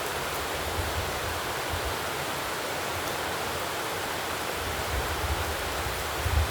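Steady rushing outdoor noise, with low rumbles coming in near the end.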